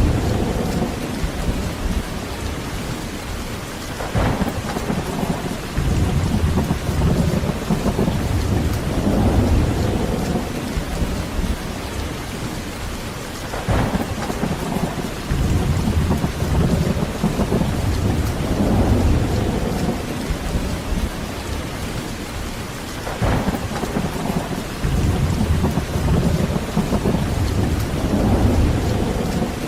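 Heavy steady rain with thunder rumbling in repeated swells, and a sharper thunder crack about every nine or ten seconds, three in all.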